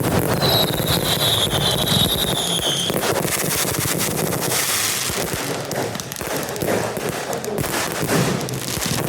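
Fireworks going off in a dense, rapid crackle of bangs. A high whistle, falling slightly in pitch, sounds over them for the first few seconds.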